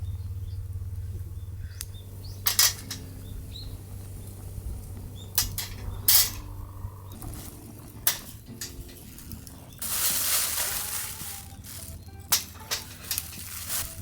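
Camp cooking gear being handled: a series of sharp clicks and knocks, with a hiss lasting about a second and a half about ten seconds in, over a low hum that fades out partway through.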